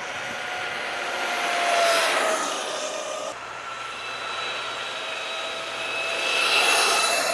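Harley-Davidson LiveWire electric motorcycle passing by twice: a high electric-motor whine over tyre and wind noise, swelling as the bike goes by, with the pitch dipping slightly as it passes. The first pass breaks off suddenly about three seconds in.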